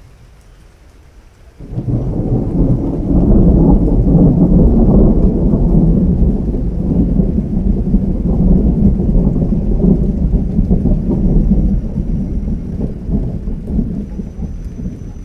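A long rolling peal of thunder: deep rumbling breaks in suddenly about a second and a half in, stays loudest for several seconds, then slowly dies away.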